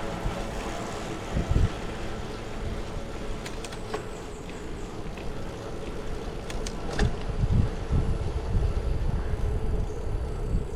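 Ride noise on a bicycle: wind buffeting the microphone in gusts over a steady hum, with a few sharp clicks about a third and two thirds of the way in.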